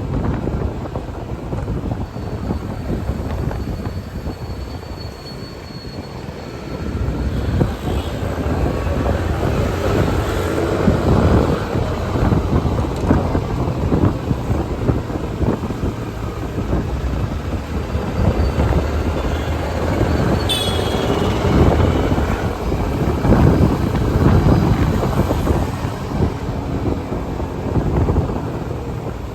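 Motorbike riding through city traffic: engine and road noise rising and falling, with wind buffeting the microphone. A brief high tone sounds about two-thirds of the way through.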